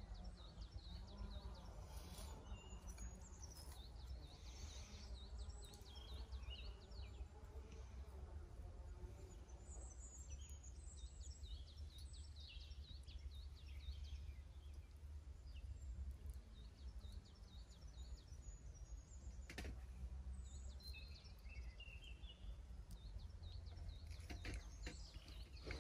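Small songbirds chirping and trilling over a steady low rumble, with a few sharp clicks in the last quarter.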